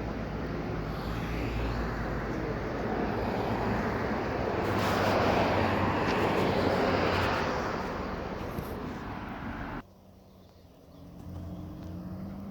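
Road traffic passing on a busy street, a vehicle going by loudest about five to seven seconds in. Near the end the noise cuts off abruptly, leaving a quieter steady engine hum.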